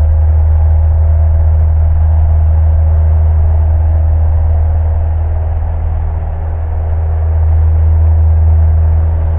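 Cessna 172 Skyhawk's piston engine and propeller in flight, a loud steady drone with a deep hum, heard inside the cockpit.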